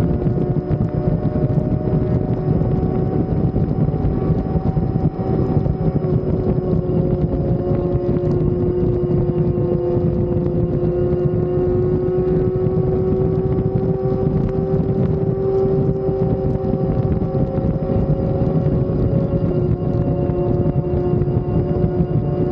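Motorcycle engine running at a steady cruising speed, its pitch holding nearly even with a slow slight rise and fall, with wind rushing over the microphone.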